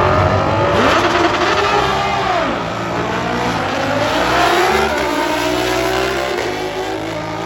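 Drag racing motorcycle engines revving hard, pitch climbing and falling several times, with a steadier low engine note running underneath.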